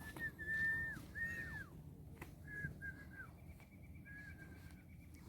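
A series of clear whistled notes at one pitch, each held briefly and then dropping away at the end, some long and some short, with gaps between them.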